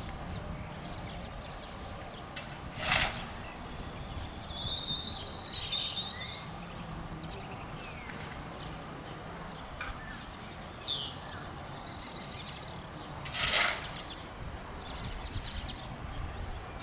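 Small birds chirping on and off over a steady low rumble, with two short, loud bursts of noise, about three seconds in and again later on.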